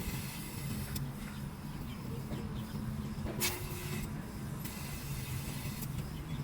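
A steady low mechanical hum with a few faint clicks and one sharper knock about three and a half seconds in.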